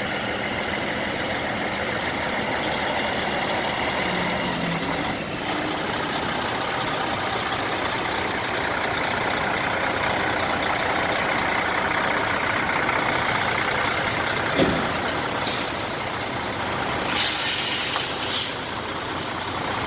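Truck engine running steadily, with a sharp knock and a few short hisses near the end.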